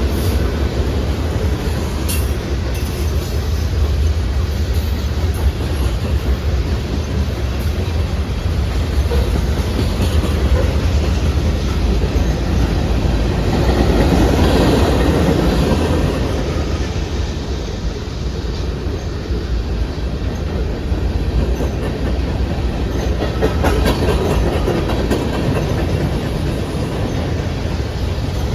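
Freight train rolling past: a steady, heavy rumble of steel wheels on rail that swells louder about halfway through, then eases.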